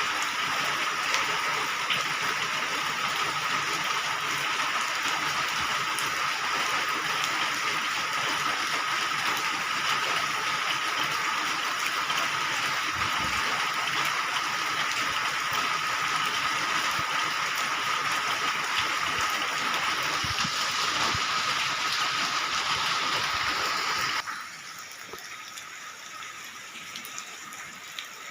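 Steady rain falling, a dense even hiss with a steady high tone running through it; about 24 seconds in the sound drops suddenly to a much quieter patter with scattered light drips.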